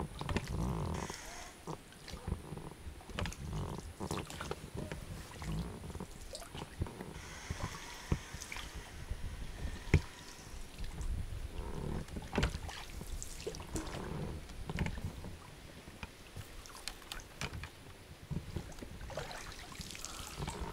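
A small boat being paddled and worked by hand through fallen trees: paddle splashes and drips of water, with scattered knocks and scrapes against the boat. One sharp knock comes about halfway through.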